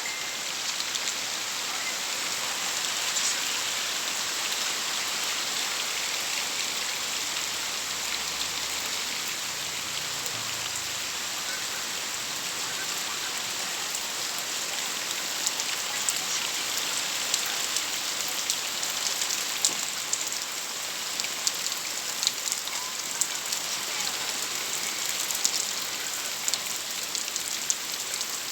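Heavy rain falling steadily, with sharp drip and drop taps that grow more frequent about halfway through.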